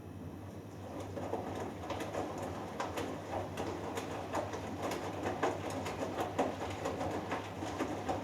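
Hoover Dynamic Next washing machine mid-wash: the drum turning a wet load, with water sloshing and irregular clicks and knocks over a steady motor hum. The sloshing picks up about a second in.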